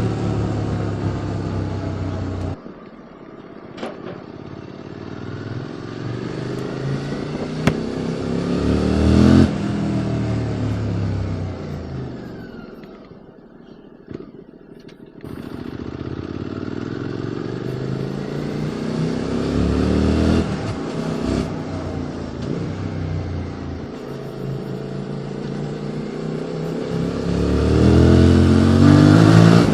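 QJ Motor SVT650X parallel-twin motorcycle with an Arrow Racetech slip-on exhaust, heard from the rider's seat, accelerating through the gears. Its note rises in repeated sweeps and drops back at each shift. It slows to a low rumble about halfway through, then pulls away again, hardest near the end.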